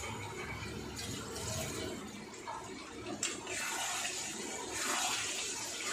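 Chicken curry sizzling in a steel karahi over a gas flame as it is stirred with a spatula, swelling in waves with a sharp tick of metal a little over three seconds in. The chicken, yogurt and a splash of water are being fried down until the oil separates.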